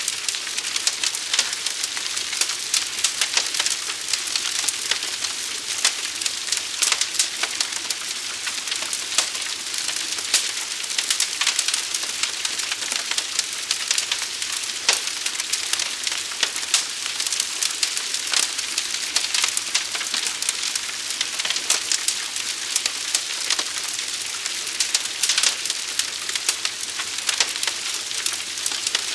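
Fire burning with a dense, continuous crackle: many sharp pops and snaps over a steady hiss.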